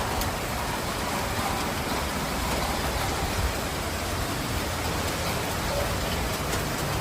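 Steady rain falling, an even continuous hiss with a few faint drop ticks.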